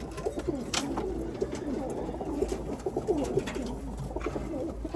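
Many cumulet pigeons cooing at once inside a loft, a steady chorus of overlapping low coos, with a few short clicks.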